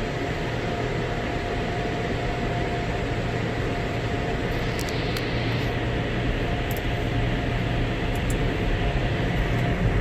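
Touchless car wash air dryer blowing steadily over the car, heard from inside the cabin: an even rush of air with a faint steady whine under it.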